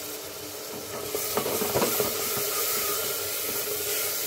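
Onion paste sizzling in hot oil in a pressure cooker, stirred with a wooden spoon, with a few scrapes of the spoon. The sizzle grows louder about a second in.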